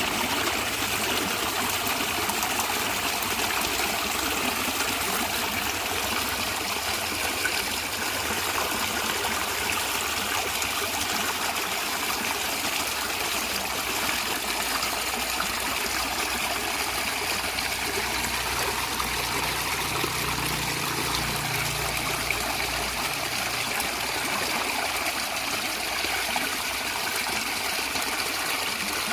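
Natural stream water running and gurgling steadily over rocks.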